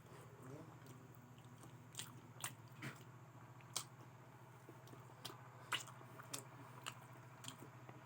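Close-miked eating sounds of someone chewing spicy fried potatoes: quiet chewing with scattered short mouth clicks and smacks, over a low steady hum.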